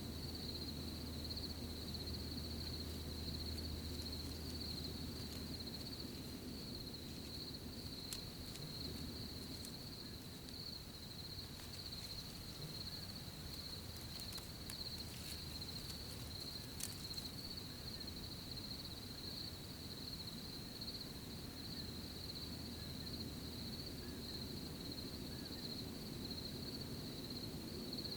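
Crickets chirping in a steady, high, unbroken trill over a low background rumble, with a few faint crackles around the middle.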